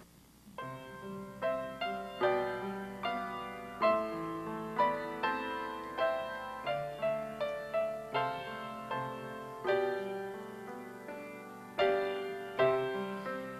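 Piano playing a slow, gentle piece: single notes and chords struck about twice a second, each fading away, beginning about half a second in.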